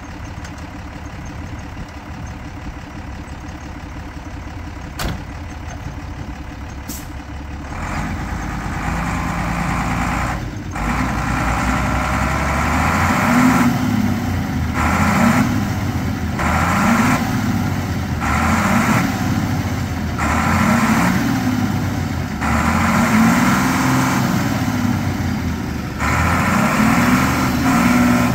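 A vehicle engine running steadily, then revved up and down over and over, about once every two seconds, from roughly a third of the way in.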